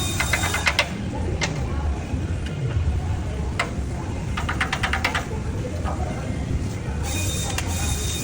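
Two short bursts of rapid clicking, one just after the start and one about halfway through, with a few single ticks between, over a steady low rumble.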